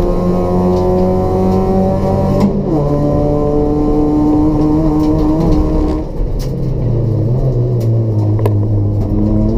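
Race-built Toyota Etios's 1.5-litre petrol engine with free-flow exhaust running under load, its pitch climbing steadily. The pitch drops abruptly about two and a half seconds in as the next gear is taken, then climbs again. It falls sharply to a lower note about six seconds in, with a few sharp clicks after that.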